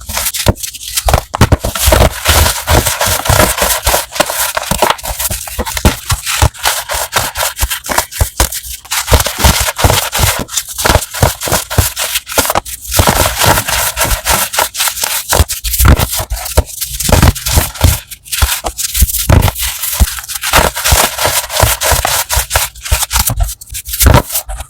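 Crunchy chalk being crushed: a loud, dense run of crackling crunches and crumbling with only brief pauses.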